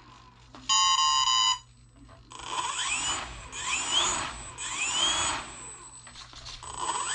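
A single steady electronic beep about a second in. Then the servos of a Volantex P-51D RC plane whir in three or four strokes about a second apart, each with a rising whine, as the control surfaces are worked back and forth.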